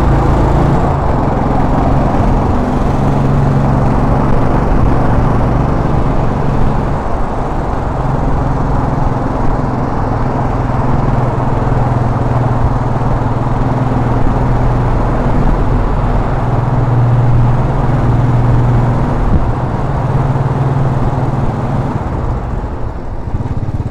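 A 2010 Royal Enfield Classic's single-cylinder engine running as the motorcycle is ridden through city streets. The engine note shifts pitch a few times as the bike changes speed, over a steady rush of road and wind noise.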